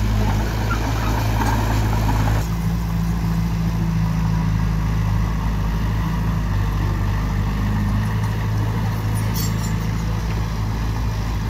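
Diesel engine of heavy earthmoving machinery running steadily under load.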